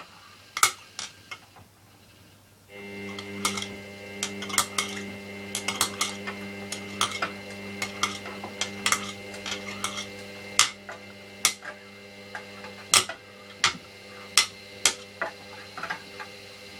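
Hoover DYN9144D3X washing machine's drum motor starting up about three seconds in and then humming steadily, as the machine moves into its final spin. Sharp clinks and knocks from the drum recur throughout.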